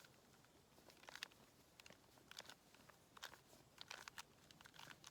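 Faint clicking and clacking of a Square-1 puzzle's plastic layers being turned during a parity algorithm, in short clusters about once a second.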